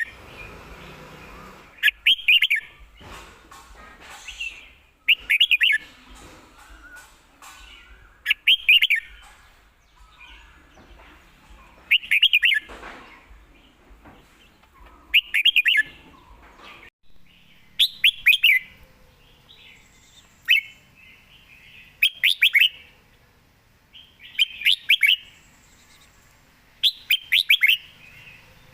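Red-whiskered bulbul singing: short, quick whistled phrases repeated about every three seconds.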